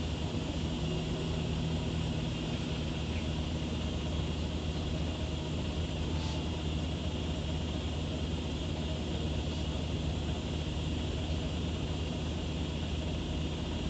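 Scania CN94UB OmniCity city bus heard from inside, its engine running steadily with an even low hum.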